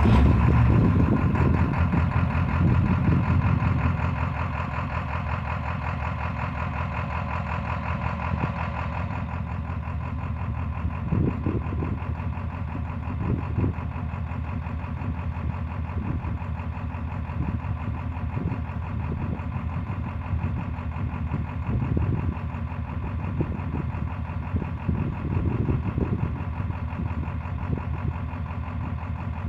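Ford 7.3 Power Stroke V8 turbo-diesel running, louder for the first few seconds and then settling to a steady idle. Irregular stumbles recur through the idle, which fits the misfire this engine has.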